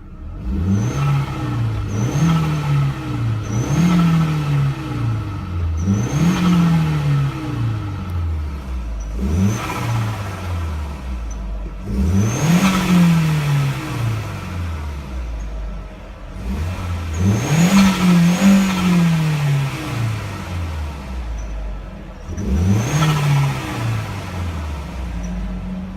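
Audi A3 8L turbo engine revved about eight times in a row. Each rev climbs quickly and winds down slowly, and a short high chirp of turbo flutter comes as the throttle is let off at the top of each rev.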